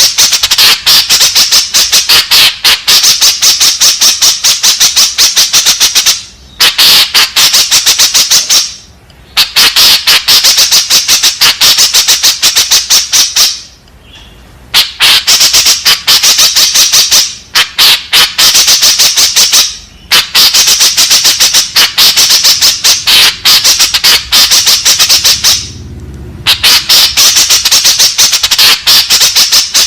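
White-breasted woodswallow (kekep babi) calling: a rapid, harsh chatter of many short notes in long bouts, broken by a few brief pauses.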